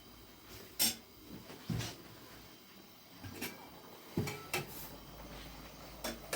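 Kitchen handling sounds: about six sharp knocks and clacks, irregularly spaced a second or so apart, as things are set down, moved and opened while the drink is made.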